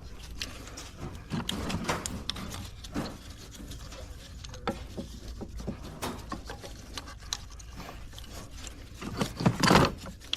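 Ignition coils being handled and set back into the spark plug wells: scattered plastic and metal clicks, taps and rustling, with a louder clatter about nine and a half seconds in.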